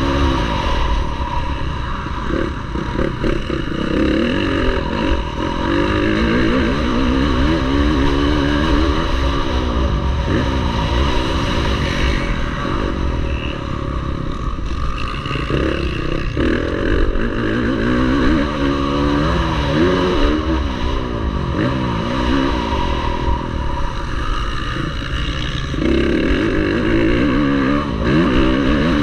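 Motocross bike engine racing, its pitch climbing and dropping again and again through acceleration and gear changes, over a steady low rumble.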